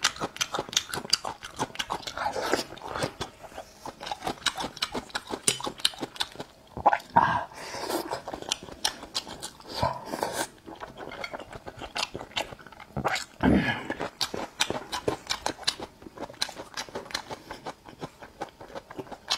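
Close-miked eating: wet chewing and lip smacking with many quick mouth clicks, as sauce-soaked grilled skewers and pickled Laba garlic are eaten, and a few louder smacks or slurps along the way.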